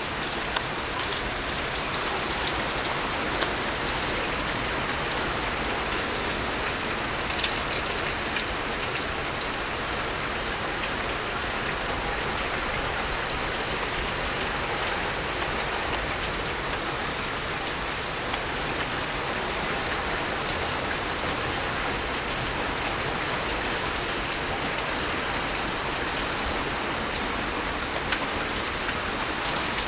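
Heavy rain falling steadily and splattering on surfaces, with a few sharper drips and ticks scattered through it.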